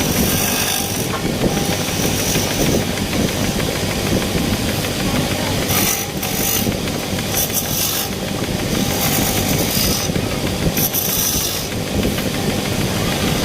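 A woodworking machine running steadily as it cuts wood, with a steady low hum and bursts of higher hiss now and then.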